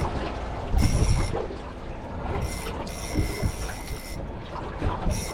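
Fishing reel being cranked in several short spells, a high whirring whine that starts and stops, over a low rumble of wind on the microphone.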